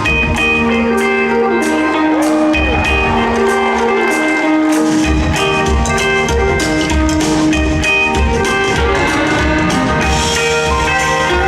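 Live rock band playing an instrumental passage: guitar lines over bass and a drum beat.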